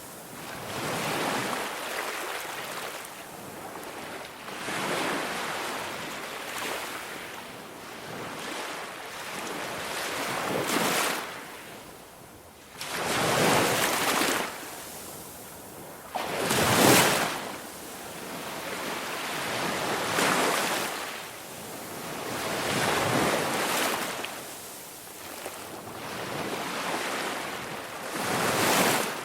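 Ocean waves washing in, a hiss that swells and fades every few seconds, with no crackling to be heard.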